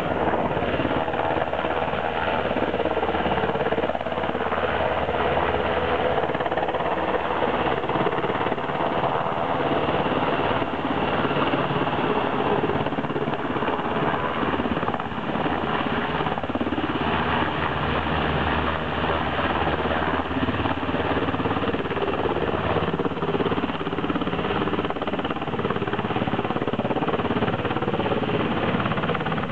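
Rescue helicopter running close by: the rapid, even beat of its rotor blades over steady engine noise, loud throughout.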